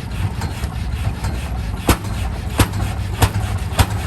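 Rumely OilPull kerosene tractor engine running slowly with a steady low rumble. From about two seconds in, a sharp crack comes roughly every 0.6 s.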